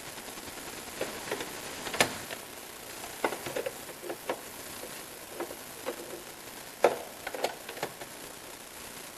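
Irregular light clicks and knocks of hand tools and engine parts being handled, the two sharpest about two and seven seconds in, over a steady hiss.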